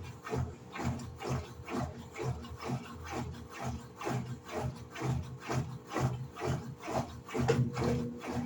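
Electrolux LED14 14 kg washing machine agitating a load of laundry: a steady motor hum under rhythmic swishing and knocking, about three to four strokes a second.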